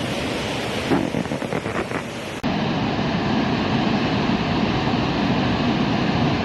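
Rushing floodwater with wind buffeting the microphone. About two and a half seconds in, the sound cuts abruptly to a louder, steadier rush.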